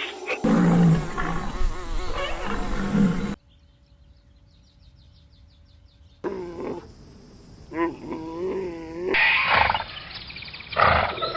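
A sequence of different animal sounds cut one after another: a loud rough growling call for about three seconds, then a quiet stretch with a faint fast buzzing pulse, then a run of wavering pitched calls and another rough call near the end.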